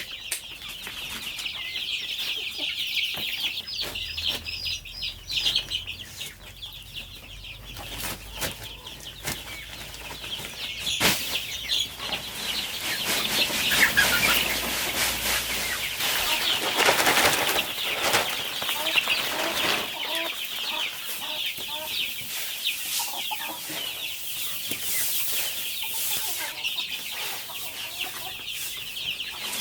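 Chickens clucking and flapping their wings, over a steady high-pitched chirping. There is a sharp knock about 11 seconds in.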